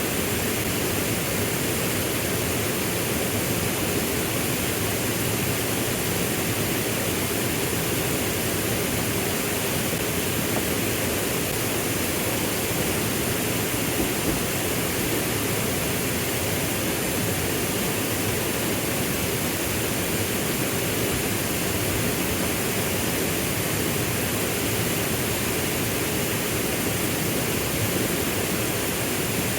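Waterfall rushing: a steady roar of falling and splashing water with no change in level.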